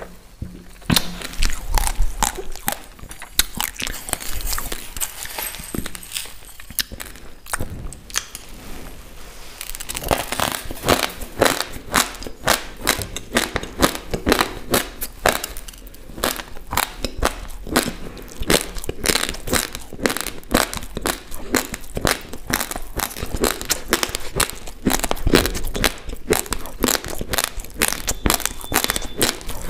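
Uncooked basmati rice being chewed close to the microphone: rapid, dense crunching of hard dry grains between the teeth, getting louder and denser about ten seconds in.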